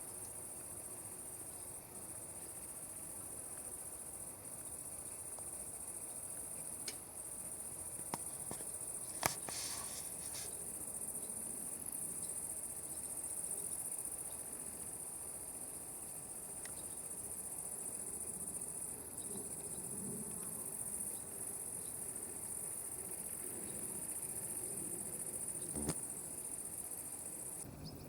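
Meadow insects stridulating in a steady, continuous high-pitched chirr that stops shortly before the end. A few sharp clicks sound over it, the loudest about nine seconds in.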